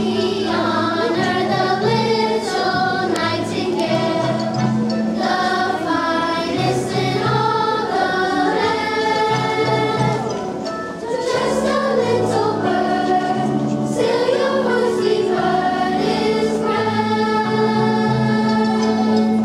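A children's choir singing a song over instrumental accompaniment with a steady low bass line, easing briefly about halfway through before the singing picks up again.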